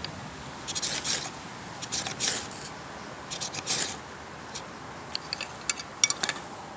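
A rucksack being handled: three short scraping rubs, then several light clicks.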